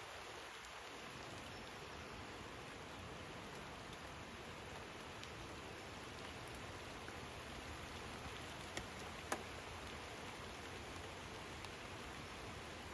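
Rain falling on a river's surface: a steady even hiss, with a few single drops ticking louder about nine seconds in.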